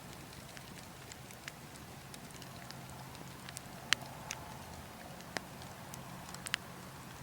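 Burning logs crackling, with irregular sharp pops, the loudest a little before halfway and twice more near the end, over a steady background rush of wind.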